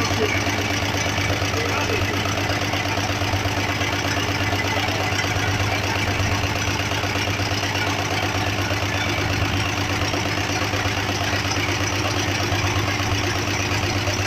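Renault car engine idling steadily.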